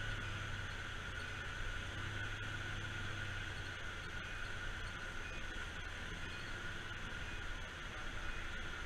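Fire engine running steadily, a constant low hum with an even hiss over it.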